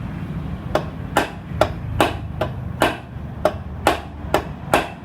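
Hammer blows struck repeatedly, about ten sharp strikes roughly two a second, each with a short ring.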